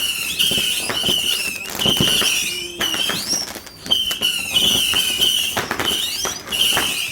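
Fireworks going off: repeated high whistles, some gliding upward in pitch, with sharp cracks and bangs between them.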